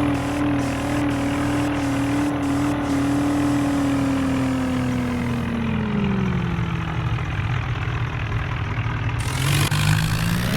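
Vehicle engine running hard under load, its pitch holding steady, then dropping about six seconds in and rising again near the end.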